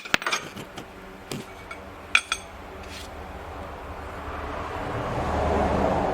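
Steel tool parts clinking and ringing a few times, the sharpest about two seconds in, as a ball joint press is repositioned on a control arm. A steady rushing noise swells up in the second half and is loudest near the end.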